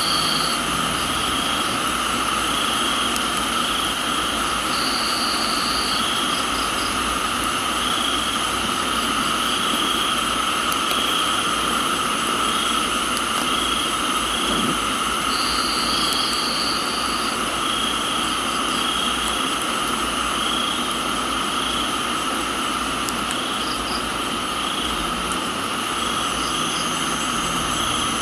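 Crickets and other insects trilling steadily at several pitches, one of them pulsing about once a second, with a higher trill coming in briefly three times. Under them lies an even hiss of rain.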